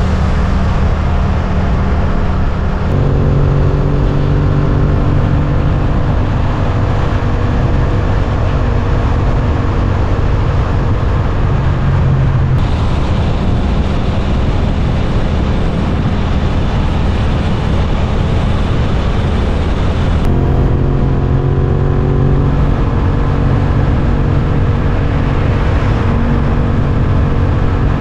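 Suzuki GSX-8S 776 cc parallel-twin engine running under way, heard with heavy wind rush on the microphone. The engine note holds steady for long stretches, as when cruising at a constant speed.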